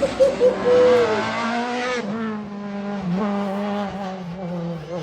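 Rally car at speed: tyres squeal briefly over the first two seconds against loud gravel and engine noise, then the engine's note holds fairly steady with small wavers in pitch.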